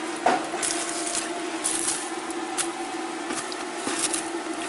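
Light knocks and clicks of firewood and stove hardware being handled at an open wood stove, about half a dozen scattered through, over a steady hum.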